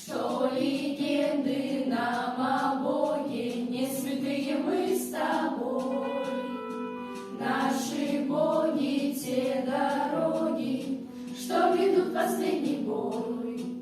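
A voice singing a song over musical accompaniment, in sustained phrases with short breaks between them.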